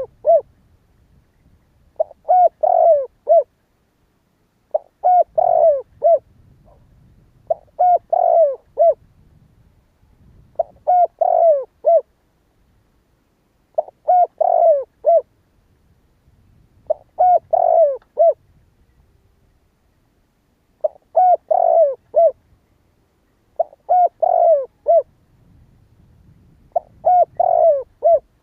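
Spotted dove cooing: a short phrase of several notes repeated about every three seconds, the lure call used to draw wild doves.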